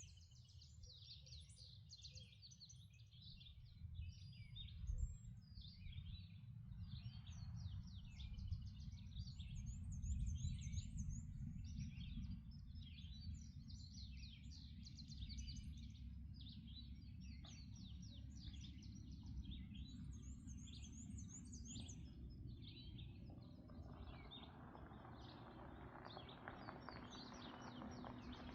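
Several songbirds singing at dawn: rapid chirps and trills, with a high, fast trill repeated a few times. Under it runs a steady low rumble, and near the end a broader rushing hiss swells in.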